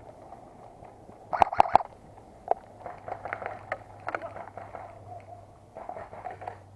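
Airsoft gun firing three quick sharp shots about a second and a half in, then a single shot, followed by a patter of softer clicks and rustling.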